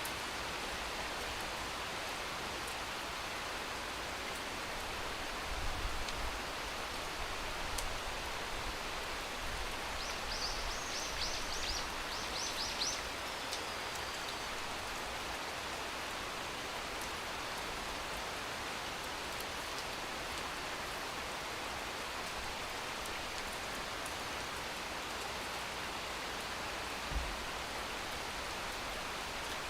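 Steady rain, an even hiss of falling drops. A quick run of short high chirps comes about ten seconds in, and a dull low thump near the end.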